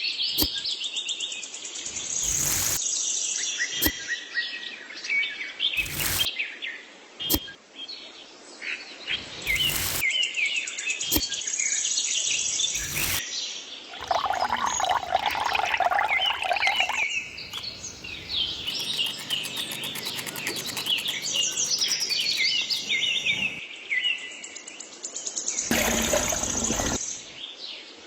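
Many small birds chirping and twittering continuously, broken by a series of short knocks or clicks.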